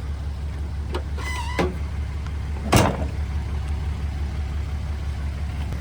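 Pickup truck engine idling with a steady low hum. Just under three seconds in there is one sharp thump.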